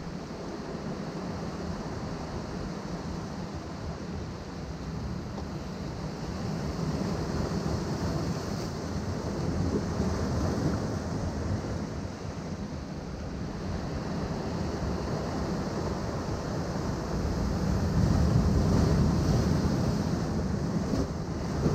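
Atlantic waves surging against rocks below a cliff: a continuous wash of surf that swells twice, loudest near the end.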